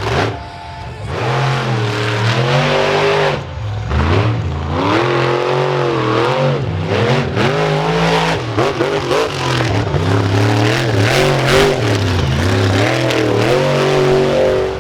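Monster truck engine revving hard and repeatedly, its pitch swooping up and down as the throttle is blipped and held.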